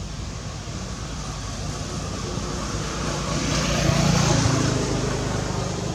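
A motor vehicle passing by, its engine hum growing louder to a peak about four seconds in and then fading.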